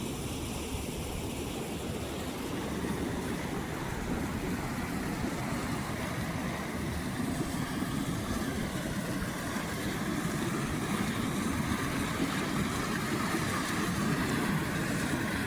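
Floodwater rushing steadily, growing slightly louder toward the end.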